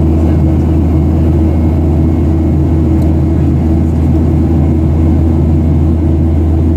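Airliner's jet engines running, heard inside the cabin as a loud, steady rumble with a low, even hum.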